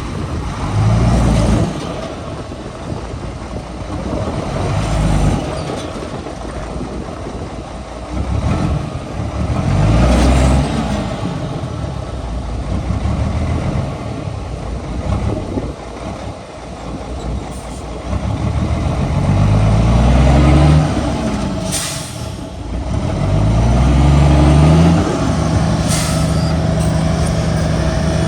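Heavy diesel engine working, its pitch climbing and falling again over and over as it is revved and loaded. Two brief sharp noises come near the end.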